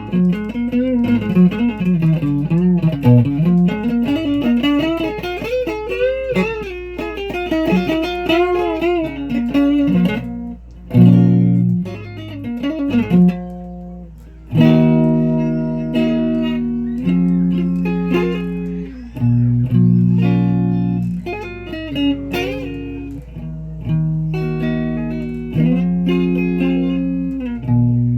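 Guitar played with a pick: for about the first ten seconds the notes waver and bend up and down in pitch, then after a short break it moves to a run of separate held notes and chords, each plucked and left to ring.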